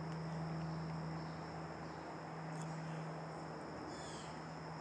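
Steady high trill of insects over a low, even hum and outdoor background noise, with a short chirp about four seconds in.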